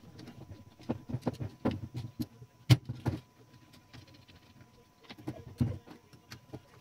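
Small metal typewriter parts clicking and knocking irregularly as they are handled and worked on, with one louder knock a little before halfway and a quieter pause after it.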